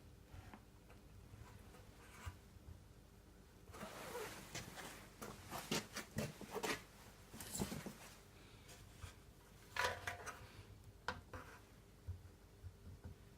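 Hand work on a motorcycle fuel tank during a glue-pull dent repair: a run of short rubbing and scraping strokes with clicks, starting a few seconds in, then another brief scrape and a couple of clicks later on.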